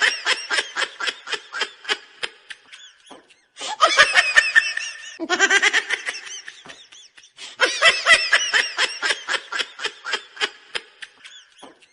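A high-pitched cartoonish laughing sound effect: rapid, pulsing cackles in bursts of a few seconds with short breaks between them, the same laugh repeating as a loop.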